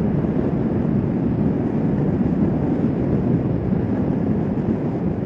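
Kawasaki Vulcan S 650 parallel-twin cruiser running steadily at road speed, its engine mixed with wind noise over the rider's microphone.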